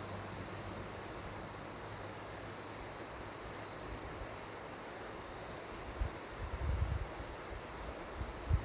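Seomjin River water flowing with a steady rushing hiss. From about six seconds in, wind buffets the microphone in low gusts.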